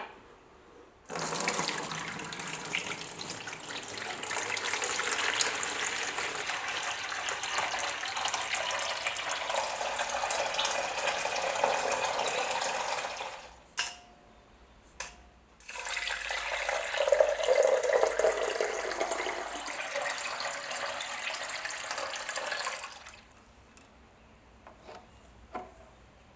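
Water running from a tap, in two long stretches, with a short break between them that holds two sharp clicks.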